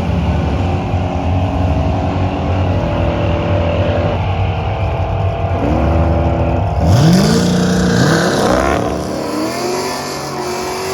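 Car engine running steadily, then revving up sharply about seven seconds in, its pitch climbing and dipping a few times before it settles back to a steady run.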